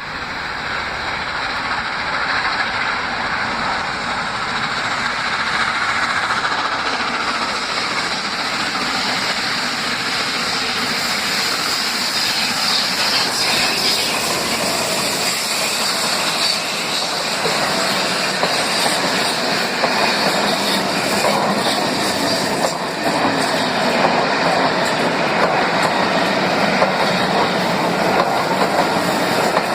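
Train hauled by the Peppercorn A1 Pacific steam locomotive 60163 Tornado running past, with carriage wheels clattering over the rail joints; the sound grows slightly louder over the first half.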